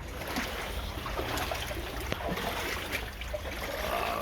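Floodwater trickling and splashing, with scattered small splashes or knocks.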